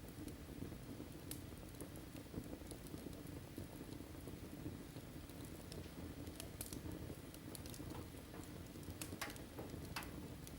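Wood fire burning in a fireplace: a faint steady rumble with scattered crackles and pops, a few sharper snaps in the second half.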